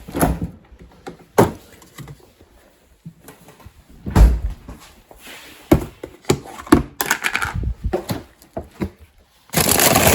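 A series of knocks and thumps in a small room, the loudest about four seconds in, like a door or cupboard being shut and things set down, with a burst of rustling and clattering near the end.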